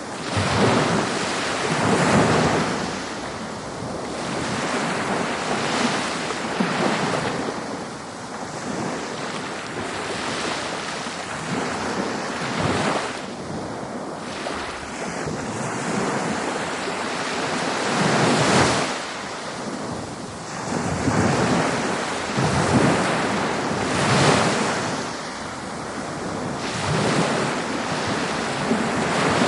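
Ocean waves breaking and washing up a beach, the surf swelling in a louder surge every few seconds with a steady wash between them. Wind is also on the microphone.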